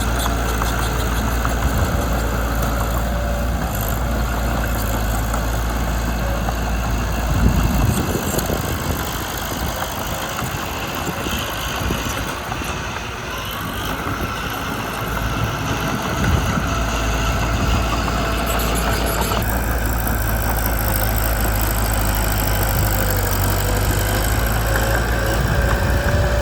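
Small Mitsubishi BD2 bulldozer's diesel engine running steadily. Its low drone weakens about 8 seconds in and comes back strong a little before 20 seconds.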